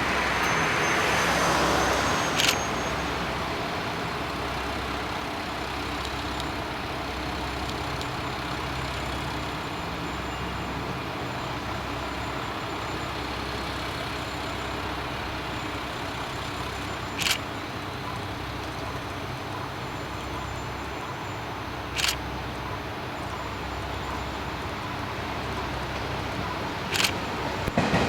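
Diesel railcar engine running steadily, with a few single sharp clicks.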